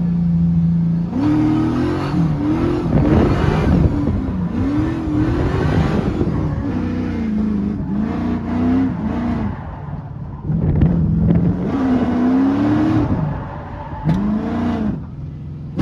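Gen 3 5.3-litre LS V8 idling steadily for about a second, then revving up and falling back repeatedly. The owner says it is still running poorly.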